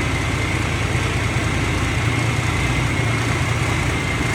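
Engine of a forage corn harvester running steadily at a constant speed, with a steady high-pitched whine over the engine hum.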